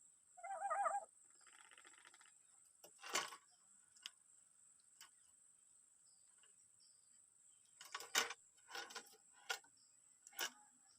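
A pet lory gives a short wavering call about half a second in, followed by a brief buzzy rattle. After that come scattered sharp clicks and taps as the bird pecks and works at a cardboard cigarette pack, several in quick succession near the end.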